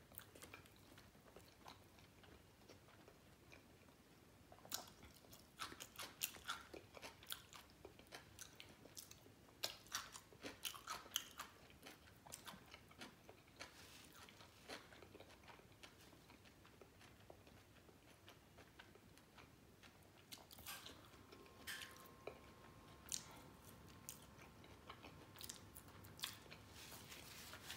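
Faint close-up eating sounds: soft chewing of french fries with small wet mouth clicks, coming in clusters with quiet stretches between them.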